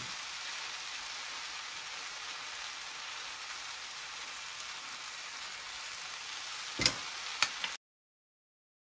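Diced vegetables and pearl barley sizzling steadily in a stainless steel saucepan, with two short knocks of a spoon against the pan near the end as stirring begins. The sound cuts off suddenly just before the end.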